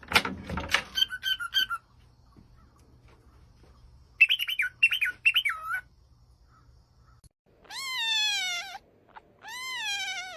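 A bird chirping and squawking in short, quick calls in the first half. Then a cat meows twice, each meow about a second long and rising then falling in pitch.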